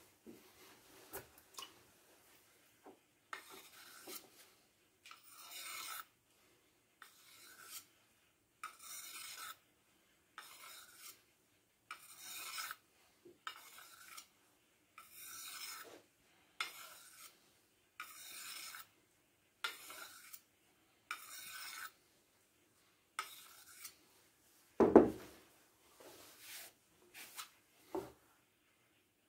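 Hand-worked rasping strokes, about twenty of them at roughly one a second, each a short scratchy hiss. A single loud knock cuts in about 25 seconds in, and a smaller one near the end.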